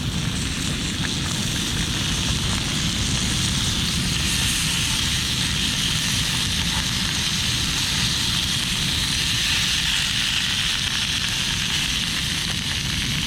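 Steady sizzling of tuna searing in a hot pan, over a low rumble.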